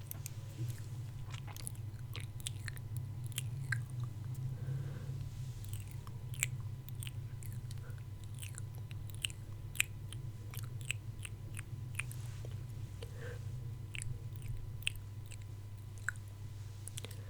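Close-miked ASMR mouth sounds: many short wet clicks and smacks at an irregular pace, over a steady low hum.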